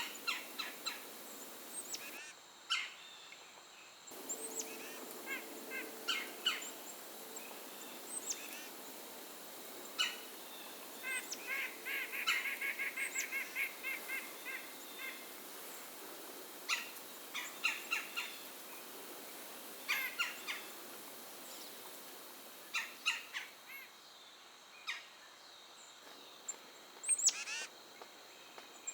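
Small songbirds calling repeatedly: scattered sharp, high chip notes and short nasal call series, with a fast run of repeated notes around the middle.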